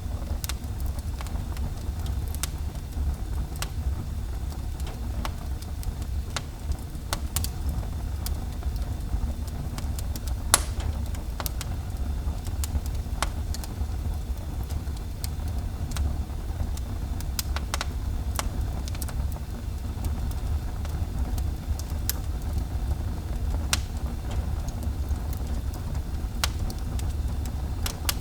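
Fire burning in a fireplace: a steady low rumble with scattered sharp crackles and pops, one louder pop about ten seconds in.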